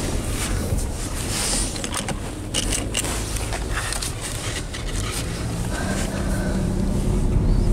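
Subaru Legacy cabin with the engine running: a run of short clicks and scraping handling noises over a low rumble, then a steady low engine hum sets in about five seconds in and grows slightly louder.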